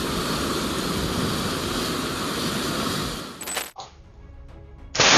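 Strong wind blowing hard, a steady loud rush of noise that cuts off about three and a half seconds in. After a brief quieter gap, another loud rush of wind-like noise starts near the end.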